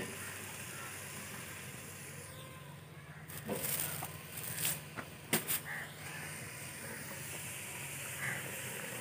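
Masala frying in oil in an aluminium pot over a wood fire, a low steady sizzling hiss, with a few sharp knocks in the middle.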